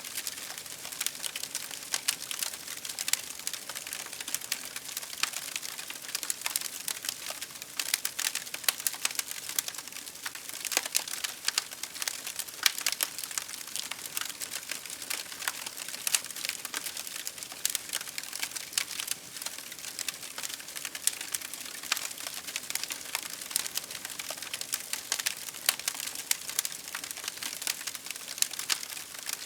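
Wood fire crackling: a steady stream of sharp pops and snaps over a soft hiss of burning.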